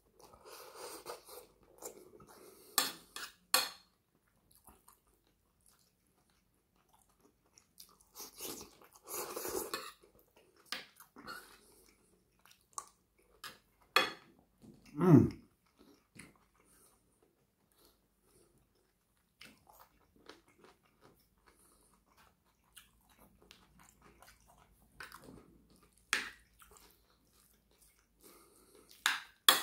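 Close-up mouth sounds of a person chewing and crunching a forkful of curry, rice and cucumber salad, broken by sharp clicks of a metal fork against the plate. About fifteen seconds in, a short vocal sound falls in pitch.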